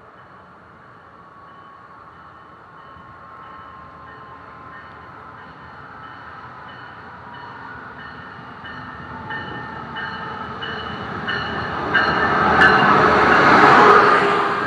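Amtrak Pacific Surfliner passenger train approaching the station, growing steadily louder until it passes close by near the end. A bell rings in an even rhythm throughout.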